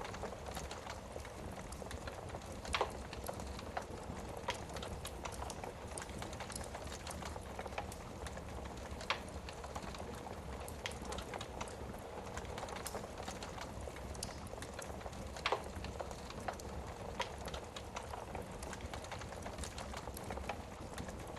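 Wood fire burning in a fireplace: a steady crackle and hiss, with sharp pops from the burning logs, the loudest about three, nine and fifteen seconds in.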